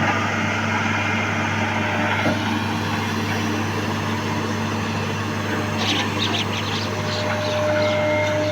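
John Deere excavator's diesel engine running steadily, with a cluster of short high chirps about six to seven seconds in.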